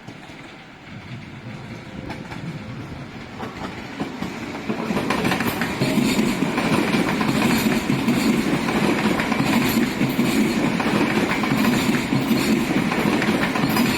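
Coupled high-speed EMU train (two sets running together) approaching, growing louder over the first five seconds, then running by with a steady rumble and a regular clickety-clack of wheels over the rail joints.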